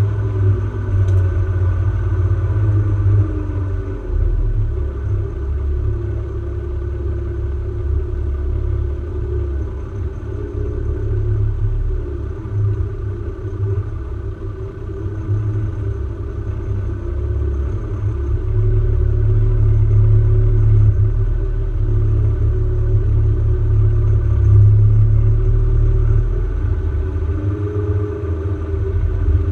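4x4 vehicle driving off-road, its engine running with a steady heavy low rumble that swells and eases a little as it goes.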